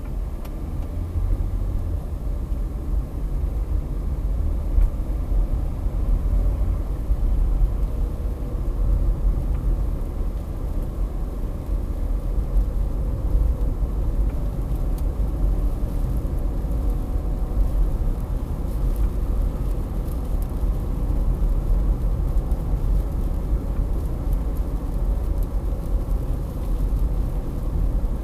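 A car being driven: a steady low rumble of road and engine noise with no sharp events.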